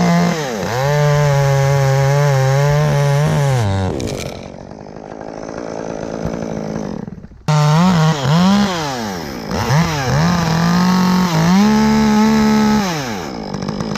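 Chainsaw cutting sugar maple wood, held at high revs for about four seconds, then easing to idle. After a sudden break about halfway through, it revs up again in several bursts and drops back to idle near the end.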